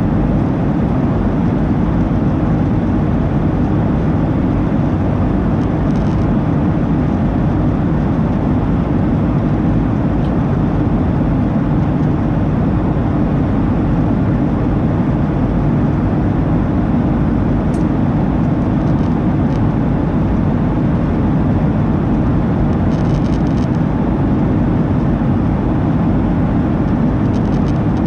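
Cabin noise inside a Boeing 737-800 jetliner: the steady, deep noise of its CFM56-7B turbofan engines and rushing air, heard from a window seat near the rear, with a few faint small ticks.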